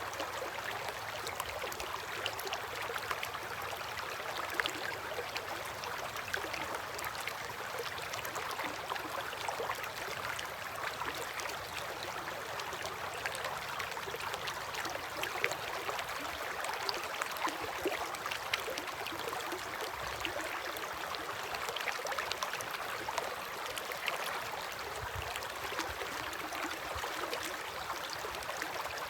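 River water flowing past an eroding bank: a steady rush with a constant patter of small splashes.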